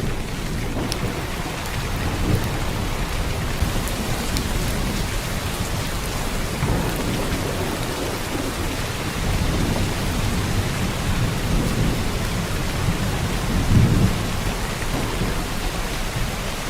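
Heavy downpour of rain, a steady dense hiss, under a low rumble that swells and fades a few times and is loudest about fourteen seconds in.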